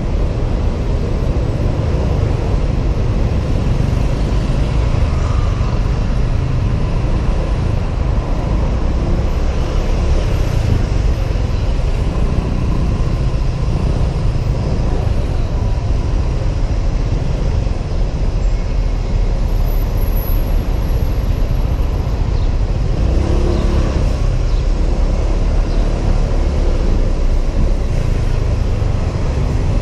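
Honda PCX 125 scooter riding through city traffic, heard from a helmet camera: a steady rush of wind noise on the microphone, with the scooter and surrounding traffic underneath.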